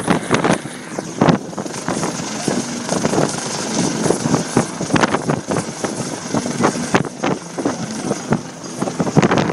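US Coast Guard helicopter hovering close by, its rotor and engine noise steady under irregular gusts of wind buffeting the microphone.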